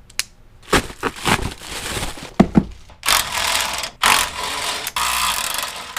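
Hand-tool and metal-part work under a truck's front end: a few clicks and knocks, then a steady mechanical rattle that lasts about three seconds, with a brief break partway through.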